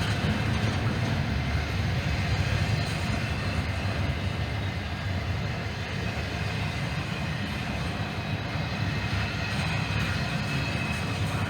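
Train rolling past with a steady low rumble and hiss of wheels on the rails.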